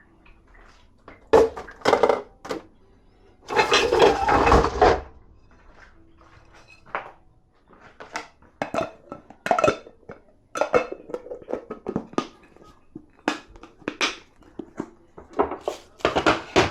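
Dishes and cutlery clinking and knocking as they are taken out of or put into a dishwasher, in a string of separate knocks, with a longer clatter about four seconds in.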